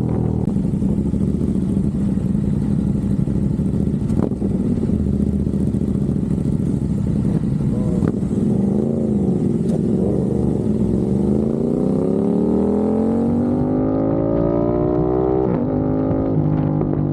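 Aprilia RS660 Factory's parallel-twin engine through a Mivv X-M1 Evo non-resonated exhaust, deep and bassy in tone. It runs steadily, then climbs in pitch over about four seconds and drops suddenly near the end before settling again.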